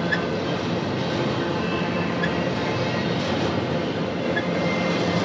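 Double-stack intermodal well cars of a freight train rolling past, giving a steady noise of wheels on rail.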